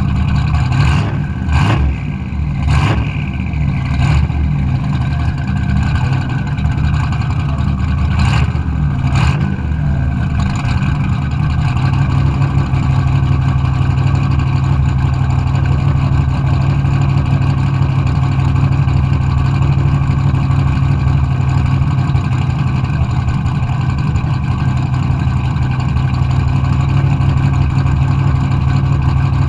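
Car engine running at a steady speed, with a few sharp clicks or knocks in the first ten seconds.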